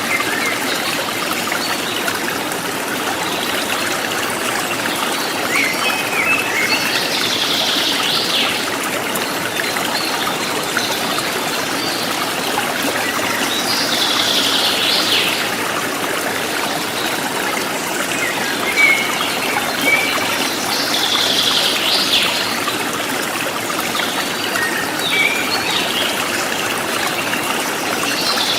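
River water flowing and trickling steadily. A bird sings a short phrase about every seven seconds, with a few brief chirps between.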